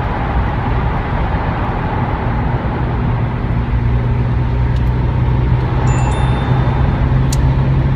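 An engine running steadily under a broad rushing noise, with a low hum that grows stronger about halfway through.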